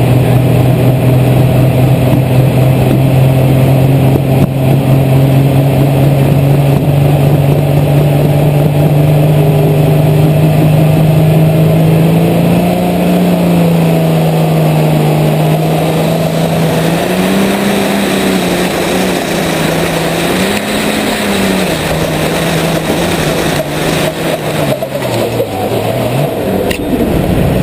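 Light super stock pulling tractor's engine at full throttle, heard on board, loud and steady at first, then its pitch wavering up and down from about halfway through. Near the end the pitch drops as the throttle comes off at the end of the pull.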